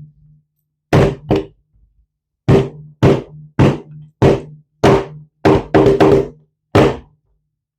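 A loaded Sig P320 pistol struck and dropped repeatedly against a hard surface in a drop test: about eleven sharp knocks at uneven intervals, each with a short low ring. It does not fire.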